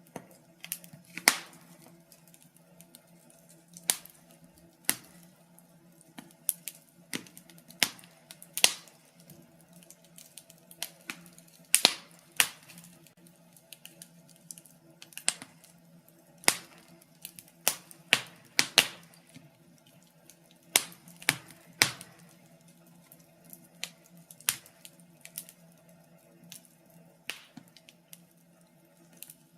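Wood fire crackling in a fireplace, with irregular sharp pops and snaps, some in quick clusters, over a faint steady low hum.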